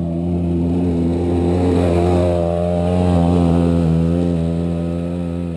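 Arctic Cat Wildcat Trail UTV's 700 cc engine running under throttle at fairly steady revs as the vehicle is driven. The sound swells up just before and fades away just after.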